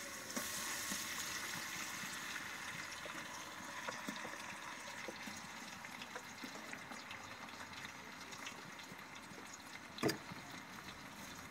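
Sliced onions, butter and cooking oil sizzling faintly in a large steel cooking pot, with scattered small crackles and one louder crack near the end.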